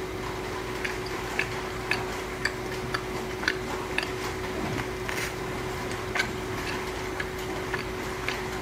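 Rain dripping: sharp, separate drip ticks about twice a second over a faint rain hiss, with a steady low electrical hum underneath.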